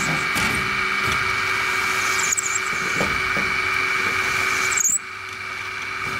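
A small motor or power tool running with a steady high whine and hiss; it drops abruptly in level about five seconds in.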